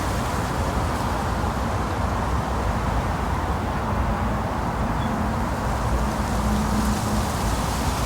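Steady low engine rumble with a faint hum that comes in about halfway through.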